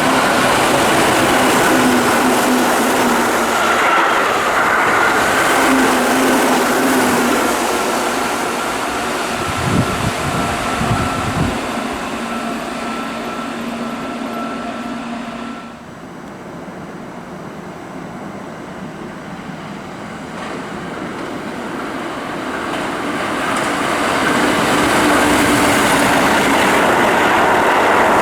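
Keihan 6000 series electric train passing at speed, its steady motor whine and wheel-on-rail noise fading, then cut off about halfway through. A Keihan 3000 series electric train then approaches and grows loud near the end.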